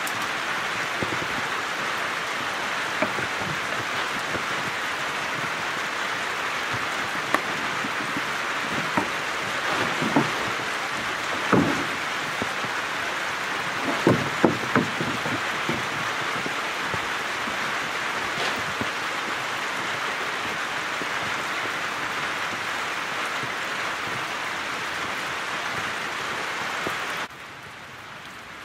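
Steady rain hissing on a corrugated metal roof, with scattered knocks and clatter as a nylon dome tent and its poles are handled. The rain noise drops off abruptly near the end.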